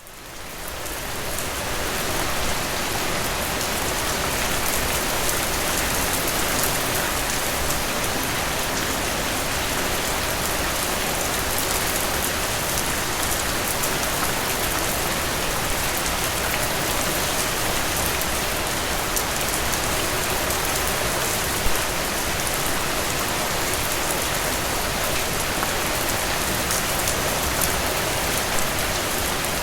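Steady rain falling, a dense even hiss of drops with scattered individual drop ticks. It fades in over the first couple of seconds, then holds steady.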